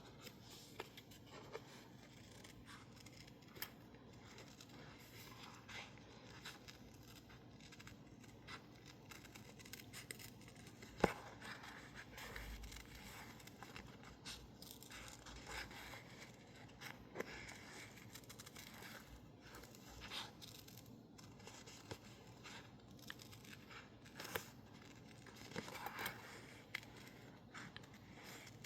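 Scissors cutting label-paper stickers: faint, irregular snips with paper rustling, and one sharper click about 11 seconds in.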